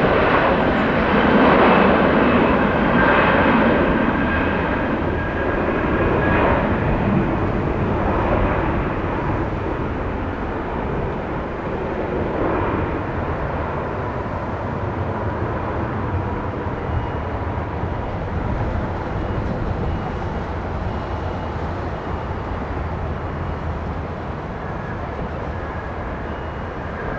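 Jet airliner engines running, with a high whine over a broad rush, loudest at first and slowly fading away over the following seconds as the aircraft moves off.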